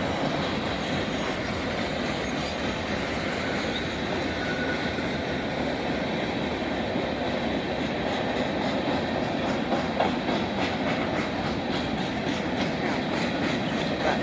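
A train rolling past, with the steady rumble and rattle of its wheels on the rails.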